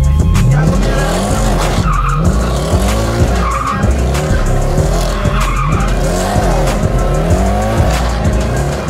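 Mercedes-Benz C63 AMG's V8 revving up and falling back over and over, about once a second, with tyres squealing and scrubbing as the car drifts in circles.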